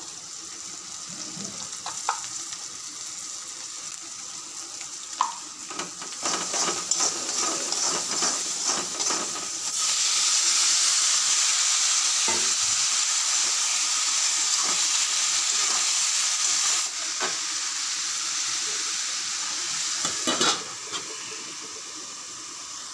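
Prawns, green chillies and spice powders sizzling in hot oil in a wok, stirred with a metal spatula that knocks and scrapes against the pan now and then. About ten seconds in the sizzle grows much louder for several seconds, with diced bottle gourd in the oil, then eases off.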